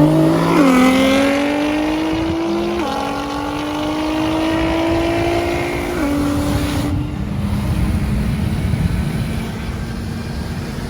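High-performance car engine accelerating hard at full throttle, its pitch climbing through the gears with upshifts about half a second, three seconds and six seconds in. About seven seconds in it lifts off to a steady lower note over wind and road rumble.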